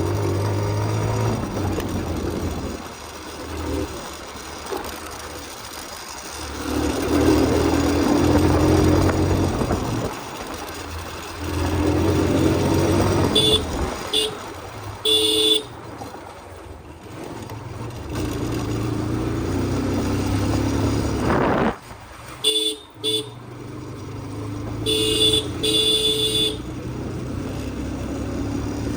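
Motorcycle engine running, rising and falling in pitch as it revs. A horn honks several short times in the second half.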